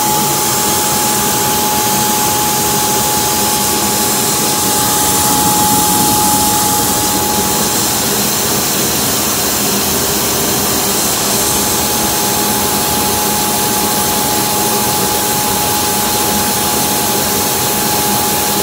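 ILife robot vacuum's self-emptying dock running its suction motor to empty the robot's dustbin, a loud steady roar with a steady high whine.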